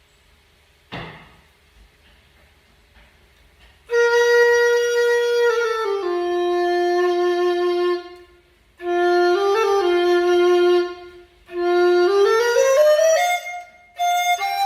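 B-flat dizi (Chinese bamboo flute) of trúc vừng bamboo playing slow phrases: a held note that steps down and holds lower, a short break, a similar phrase, then a run of notes climbing upward near the end. A short thump comes about a second in, before the playing starts.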